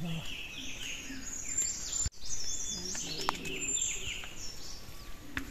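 Several birds chirping, many short up-and-down chirps overlapping, with a faint murmur of distant voices underneath. The sound breaks off for an instant about two seconds in.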